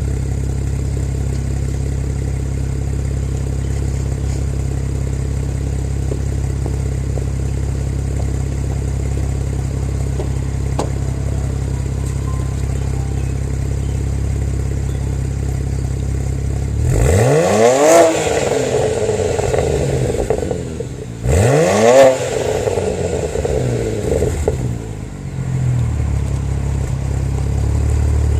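2008 BMW 335i's twin-turbo straight-six idling steadily through a VRSF turboback exhaust, then revved twice, about 17 and 21 seconds in, each rev climbing and dropping quickly with some crackling as the revs fall, before settling back to idle.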